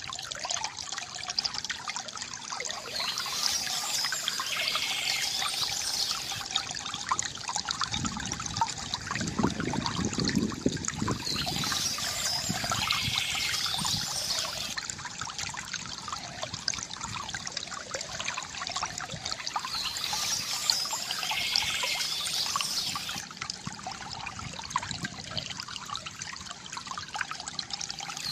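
Water trickling and pouring steadily from a bamboo fountain. A brighter splashing rush comes back about every eight to nine seconds, with a deeper gurgle about a third of the way in.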